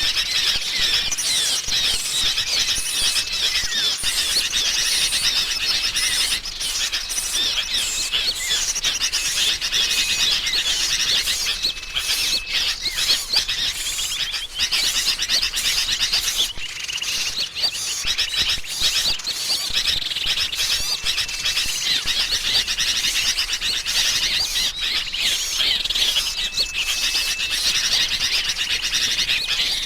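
A dense, unbroken chorus of small songbirds calling over one another, chiefly the noisy chattering of sooty-headed bulbuls mixed with other small birds, played as a bird-lure recording. A short, level whistle note recurs every few seconds through the chatter.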